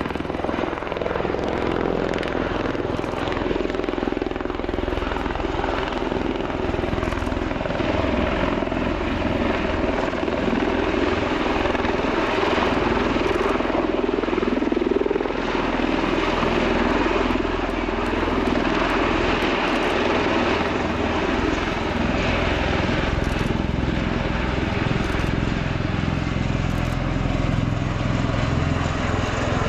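Bell-Boeing CV-22B Osprey tiltrotor in flight: its two big rotors and twin Rolls-Royce turboshaft engines make a continuous, steady rotor and turbine noise.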